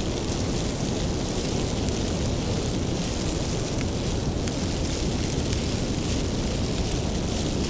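Wood fire burning with a steady low roar and scattered sharp crackles and pops.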